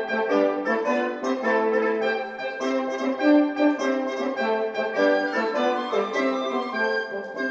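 Woodwind quintet of flute, oboe, clarinet, horn and bassoon playing classical chamber music, with several lines moving together and notes changing several times a second.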